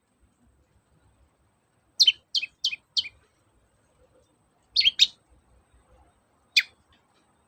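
Long-tailed shrike (cendet) calling: a quick run of four high notes, each sliding downward, about two seconds in, a close pair of notes near five seconds, and a single note near the end.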